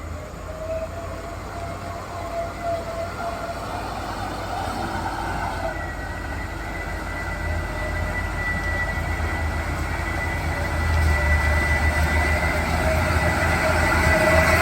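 Heavy diesel truck engine labouring under load on an uphill climb, growing steadily louder as it comes closer, with a steady high whine over the low engine rumble.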